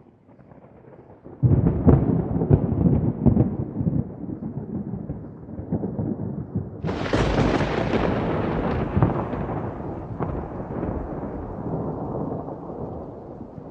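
Thunder: a faint low rumble breaks about a second and a half in into a loud crackling peal. About seven seconds in a second, sharper crack sets off a long rolling rumble that fades slowly.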